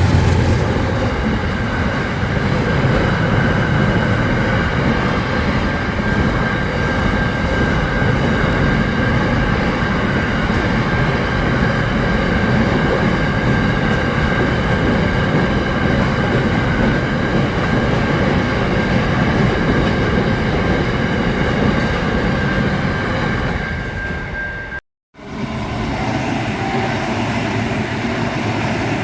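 Train running on the rails, a steady loud rumble with a thin, steady high whine above it. About 25 seconds in, the sound cuts out for a moment and a similar rail noise resumes without the whine.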